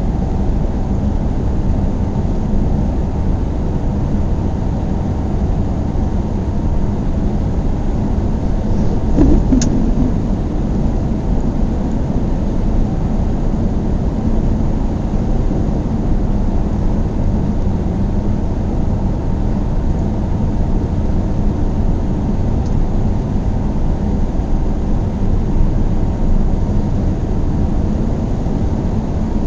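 Car driving at a steady speed: a continuous low rumble of tyre and engine road noise with a faint steady hum. A single short knock sounds about nine and a half seconds in.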